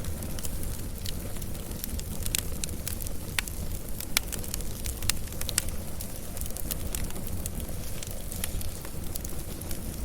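Wood fire burning with a steady low rumble and irregular sharp crackles and pops, busiest in the middle.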